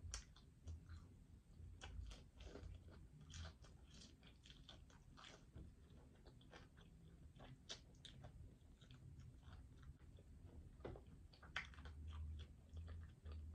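Close-up eating sounds of a chicken wing being bitten and chewed: faint, irregular short mouth clicks and smacks as the meat is pulled off the bone with the teeth.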